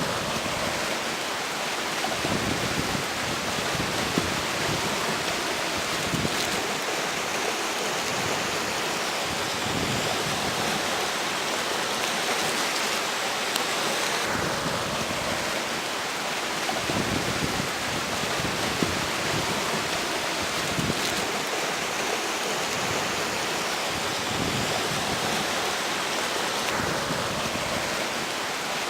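River water flowing in a steady, loud rush, with strong wind gusting and rumbling low now and then over it.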